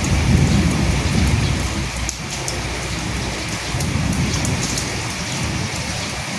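Steady rain, with small drops ticking through it. A low thunder rumble runs under it over the first two seconds and swells again around four seconds in.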